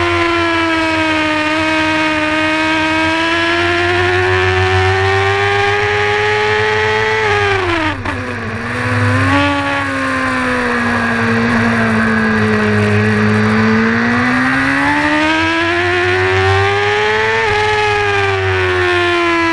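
Onboard sound of a Honda supersport race motorcycle at high revs, with wind rush over the microphone. The engine note holds high, falls sharply about seven seconds in as the throttle closes, then climbs steadily again under acceleration. Near the end it dips briefly at a gear change.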